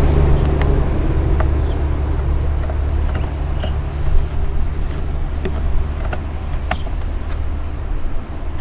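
Steady low rumble with insects chirping in a regular pulse above it, and a few light clicks and knocks.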